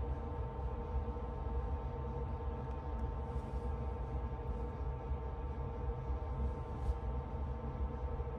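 Steady, gong-like drone of sustained held tones over a low rumble, unchanging throughout.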